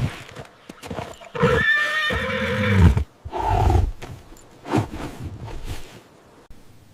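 A horse whinnying: one long, wavering neigh of about a second and a half, followed by two shorter, lower calls.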